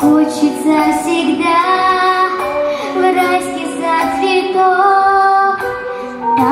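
A young female voice singing a song over instrumental accompaniment, with held notes and light vibrato.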